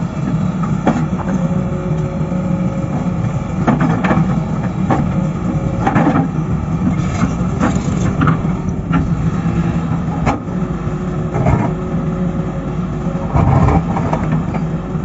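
Diesel engine of heavy earthmoving machinery running steadily under load, with irregular knocks from the machine working.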